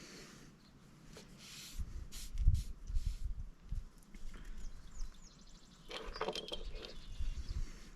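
Irregular handling noises during engine reassembly: dull low knocks and bumps starting about two seconds in, with scattered clicks and a short clatter of small metal parts near the end.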